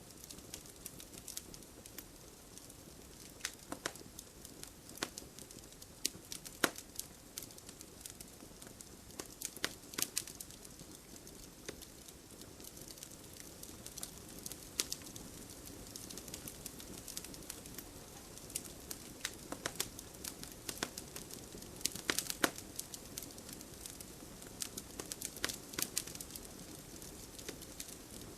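Wood fire in a fireplace burning with a steady low hiss and irregular sharp crackles and pops, a quick cluster of pops about two-thirds of the way through.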